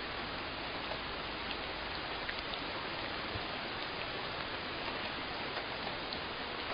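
Steady rainfall: an even hiss of rain with occasional distinct drops ticking on a surface.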